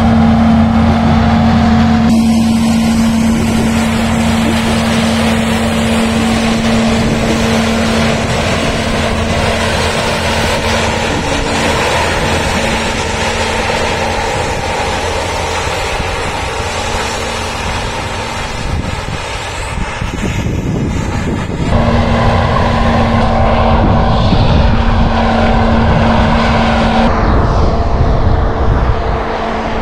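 Snowdon Mountain Railway train passing close by, its engine running with a steady hum. The hum weakens for a few seconds about two-thirds through, then comes back with a sudden rise in level.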